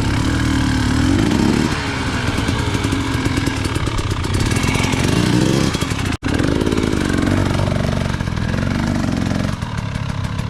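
Dirt bike engine revving up and down hard under load on a steep hill climb, its pitch rising and falling repeatedly. The sound cuts out for an instant about six seconds in.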